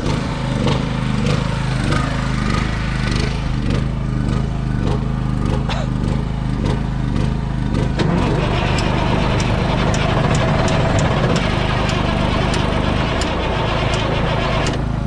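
An engine running steadily with a low drone. About eight seconds in, a hiss rises over it and a light regular ticking, about two a second, joins in.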